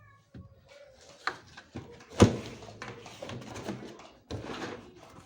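Household handling noises: a sharp knock about two seconds in, among scattered lighter clatter and rustling as things are moved and put away.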